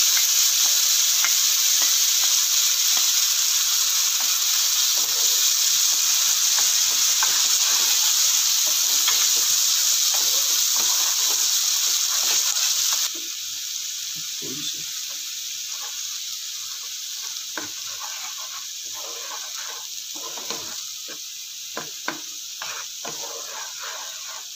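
Ground onion and cashew paste sizzling in hot oil in a nonstick frying pan, stirred and scraped with a wooden spatula. The sizzle is loud for about half the time, then drops abruptly and goes on softer, with the scrapes and taps of the spatula standing out.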